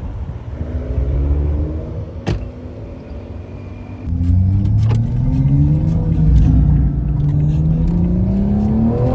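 Car engines running and revving: a brief rev in the first two seconds, then a louder engine comes in about four seconds in, its pitch climbing slowly as it pulls. A single sharp click a little over two seconds in.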